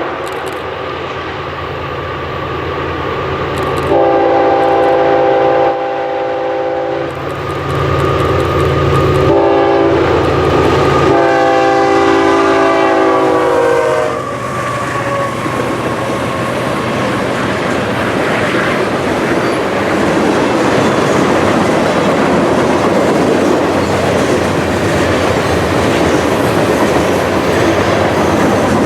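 Diesel locomotive air horn sounding several long blasts, the last one dropping in pitch as the train goes by. It is followed by the steady rumble and clatter of the train's cars rolling past on the rails.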